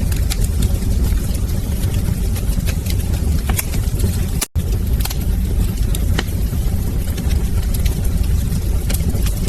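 Wood fire crackling, with frequent sharp pops and snaps over a steady low roar of the flames. The sound cuts out for an instant about four and a half seconds in.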